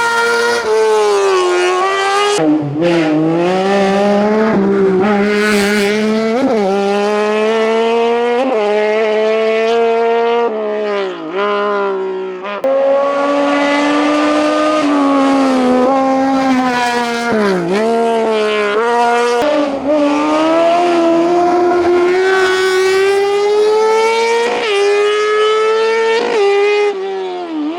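A hillclimb race car's engine running hard at full throttle, its revs climbing and then dropping sharply several times as it changes gear.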